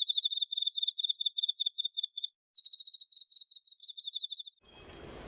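Cricket chirping: rapid trills of short pulses at one high pitch, in two runs with a brief break a little after two seconds in, over dead silence. Near the end it gives way to a steady outdoor background hiss.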